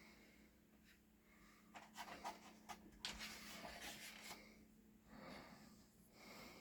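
Faint paper rustling: the pages of a booklet being handled and turned, in short scratchy bursts through the middle of an otherwise near-silent stretch.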